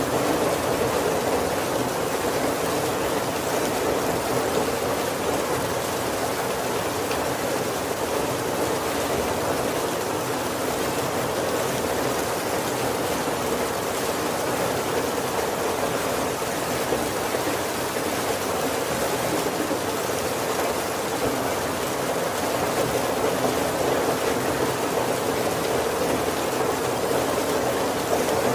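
Heavy rain falling steadily on the roof and windows of a wooden carriage: an even, unbroken hiss.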